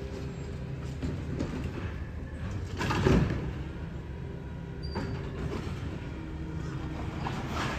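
Recycling truck's diesel engine running steadily, with a loud rattling crash about three seconds in and a few smaller knocks later, as the truck's collection gear works.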